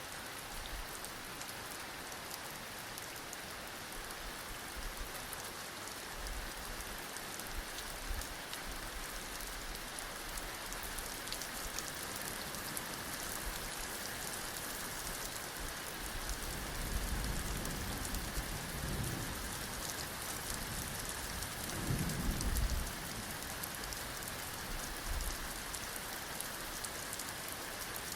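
Heavy rain falling steadily, with low thunder rumbling twice in the second half. The louder roll comes about two-thirds of the way in.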